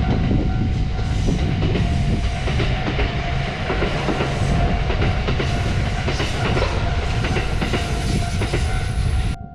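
Sangi Railway Hokusei Line articulated 762 mm-gauge train passing close over a level crossing, its wheels clattering over the rail joints and crossing frogs. The crossing's warning bell rings steadily over it. The train sound cuts off abruptly near the end, leaving the bell.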